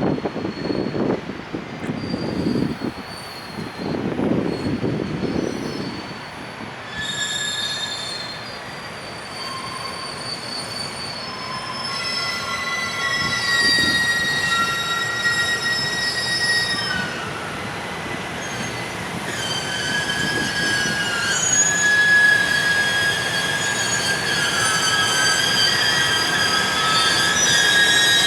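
Container freight train hauled by an EF510 electric locomotive pulling out of a station, its steel wheels squealing on the rails. A low rumbling in the first few seconds gives way, about seven seconds in, to several high, steady squealing tones that grow louder toward the end.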